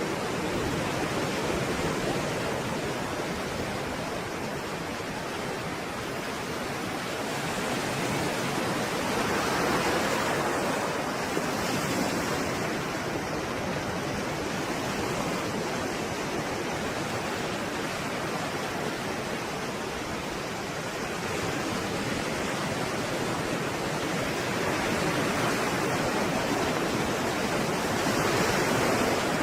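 Stormy sea surf: a continuous rush of breaking waves that swells and eases slowly, with the louder surges about a third of the way in and again near the end.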